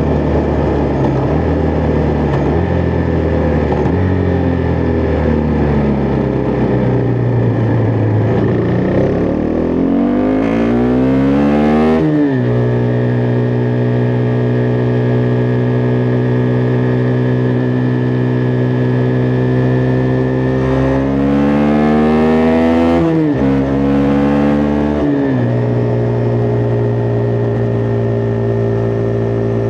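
Husqvarna Vitpilen 401's single-cylinder four-stroke engine under way: engine speed rises about ten seconds in and drops sharply with an upshift at about twelve seconds, then holds steady at cruising speed. Near the end it climbs again and drops twice more with two quick upshifts.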